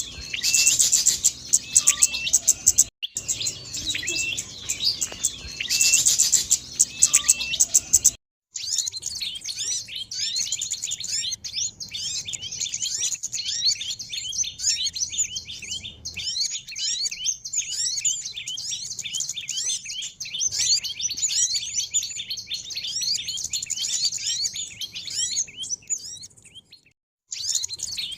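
Recorded lure calls of small songbirds: a dense stream of high, rapid chirps and twitters. The recording drops out briefly three times, about three seconds in, near eight seconds and near the end. After the second break the chirping becomes a denser chorus of many quick notes.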